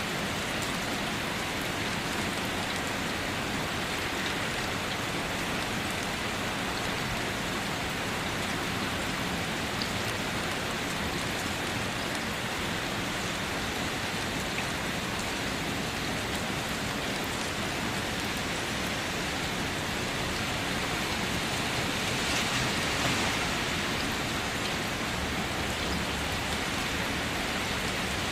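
Steady rain falling on a car, a dense even patter with scattered individual drop taps, swelling slightly near the end.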